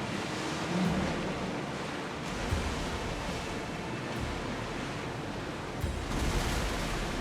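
Sea waves washing with a steady rush of water, and wind gusting on the microphone. The wash swells louder near the end.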